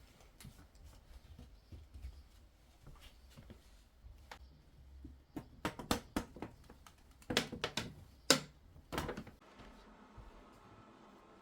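Household handling sounds: scattered clicks and knocks, a few at first and then two busy runs in the middle, the loudest knock about eight seconds in. They stop about two seconds before the end.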